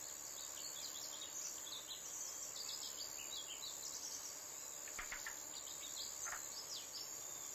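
Outdoor ambience: small birds chirping now and then in short, high, falling calls, over a faint steady high-pitched whine.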